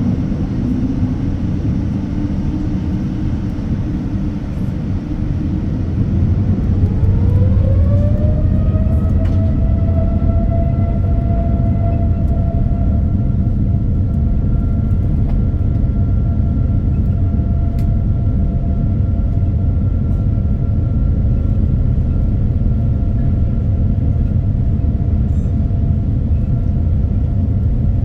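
Boeing 787-9 jet engines heard from inside the cabin over a steady rumble. About six seconds in, a whine rises in pitch and then holds steady as the sound grows louder: the engines spooling up to takeoff thrust for the takeoff roll.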